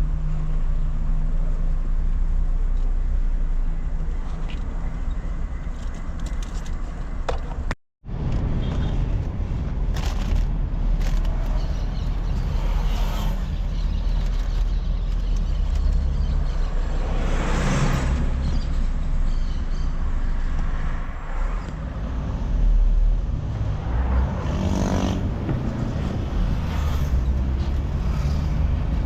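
Car cabin noise while driving: a steady low engine and road rumble, with a few swells of louder tyre and traffic noise. The sound cuts out completely for a split second about eight seconds in.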